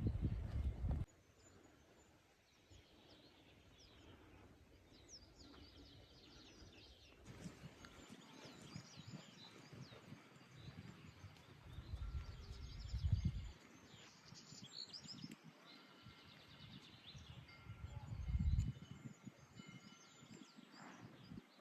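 Small birds chirping, with many short quick calls scattered throughout over a faint outdoor background. Low rumbling swells rise twice, about halfway through and again near the end, and a louder low noise stops about a second in.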